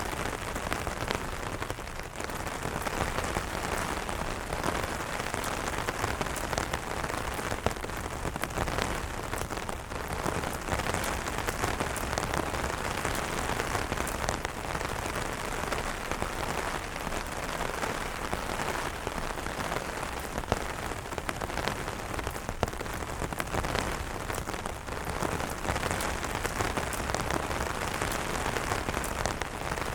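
Steady rain falling on umbrellas, with many separate drop taps on the fabric over an even hiss of rain.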